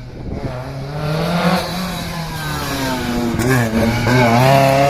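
A rally car's engine revving hard as the car accelerates and draws nearer, getting louder; the engine note climbs, drops briefly about three and a half seconds in, and climbs again.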